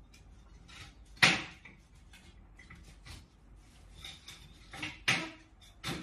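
A sharp knock about a second in, then three more knocks close together near the end.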